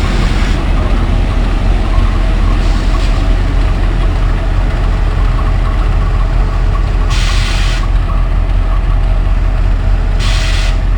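Passenger train running on the rails, a loud steady low rumble, with two short hisses about seven and ten seconds in.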